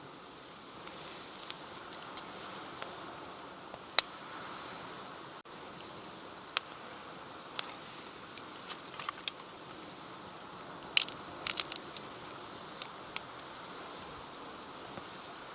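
Wood campfire crackling: scattered sharp pops and clicks, a quick cluster of them about two-thirds of the way through, over a steady soft hiss.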